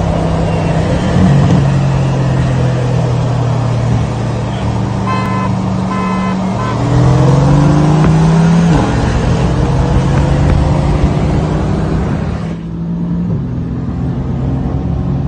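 V8 engine and road noise heard inside the cabin of a car at highway speed, with a steady low engine note that steps in pitch several times and a slowly rising engine tone in the middle as a car accelerates. Two short beeps come about five and six seconds in.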